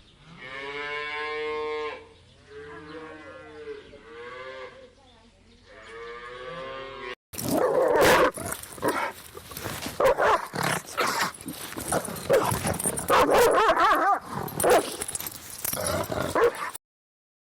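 Recorded animal calls. First comes one long, loud, drawn-out pitched call followed by softer ones. After a short break, a long stretch of loud, rapid, overlapping calls follows.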